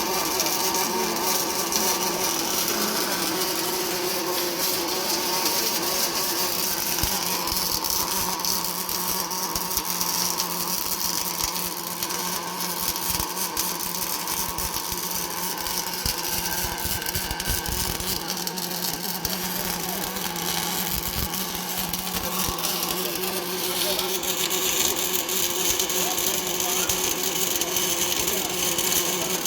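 Automatic double-torch welding machine arc-welding a cast iron pulley: a steady, crackling buzz with a low hum underneath.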